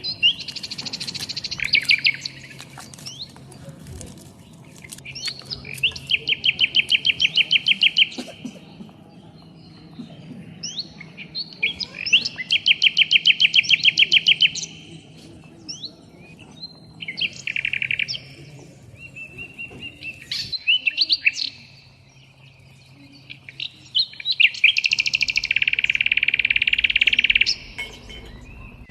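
A songbird singing: phrases of rapid, evenly repeated high notes, each lasting a couple of seconds, coming back every few seconds.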